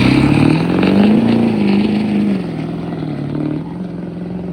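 A motor vehicle driving past close by, its engine note rising and then falling and settling as it goes by.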